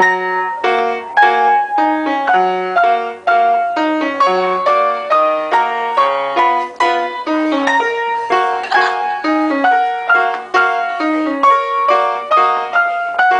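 Piano played as a duet, starting right on a count-in, with a steady run of struck chords under a melody line.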